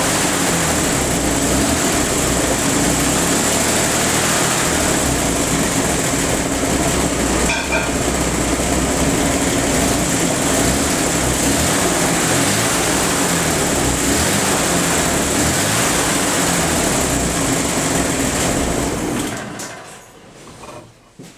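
Car engine running at a steady speed, with a constant high-pitched whine over it; the sound falls away quickly near the end as the engine stops.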